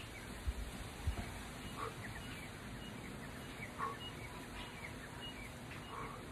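Small birds chirping with short, high calls over a steady outdoor rush of wind-like noise. Two low thumps come about half a second and a second in, and a soft, brief sound recurs about every two seconds.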